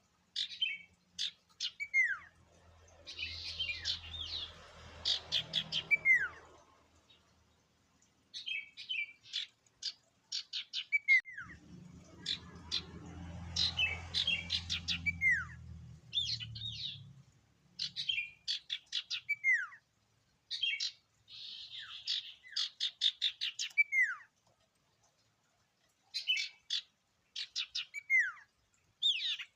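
Sirtu (common iora) singing: repeated phrases of quick high chattering notes, most ending in a clear downward-slurred whistle, with a few buzzy trills between. A low rumble sits under the song twice, near the start and again around the middle.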